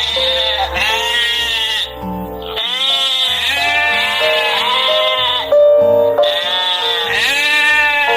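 Bleating from a sheep or goat-type animal: a series of long, wavering bleats over background music.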